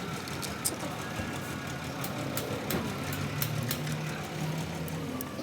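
An engine running steadily with a low hum, with scattered sharp clicks.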